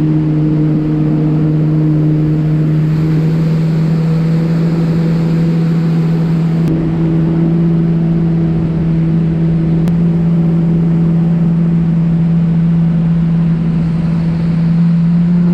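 Yamaha WaveRunner personal watercraft engine running at a steady, unchanging pitch at cruising speed, over the rush of water and wind.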